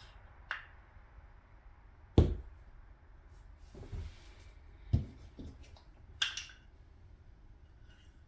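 Small outboard-motor parts being handled and set down on a workbench while the water pump is put together: a handful of sharp knocks and clicks, the loudest about two seconds in, with a brighter metallic clatter near six seconds.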